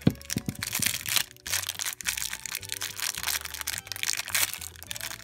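Thin plastic wrapper crinkling and crackling as a small sealed toy packet is torn open and handled, with sharp clicks about a second in, over background music with a steady beat.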